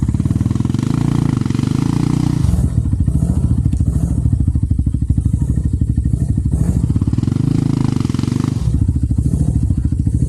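Trail motorcycle engine revving hard on a steep muddy climb, the throttle worked open in repeated surges so that the note swells and eases every second or so. It deepens about two and a half seconds in and again near the end.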